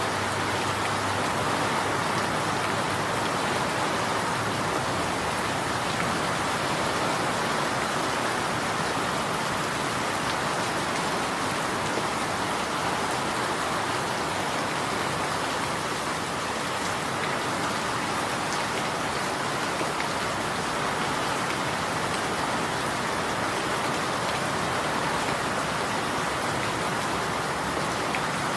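Steady rain falling and pattering on surfaces, an even wash of noise with faint scattered drop ticks.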